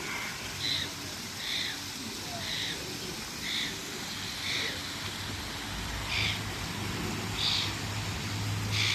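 A bird calling repeatedly: eight short, high chirps about a second apart over a steady hiss. A low hum joins about six seconds in.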